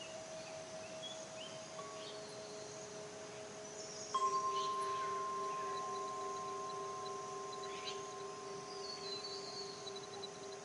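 Chimes ringing: long, steady tones with a new strike about four seconds in that rings on and slowly fades, over faint high chirps.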